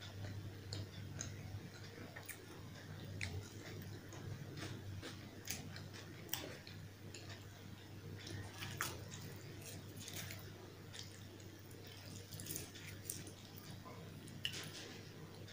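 Close-miked chewing of puri and potato curry: soft, wet mouth clicks scattered throughout, over a faint steady low hum.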